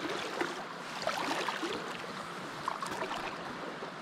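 Small stream flowing and babbling steadily, with scattered small splashes.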